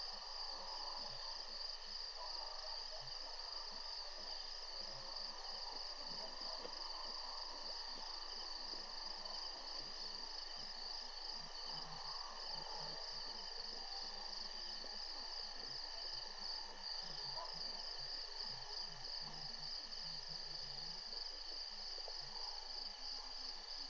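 Steady evening chorus of insects, crickets trilling on a high pulsing note with other fainter insect trills beneath, along with faint low rustling.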